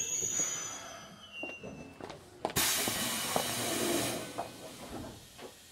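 Keikyu 1500-series electric train heard from on board: a faint whine fades out in the first second or two. About two and a half seconds in, a sudden burst of compressed air hisses for under two seconds, followed by a few light knocks.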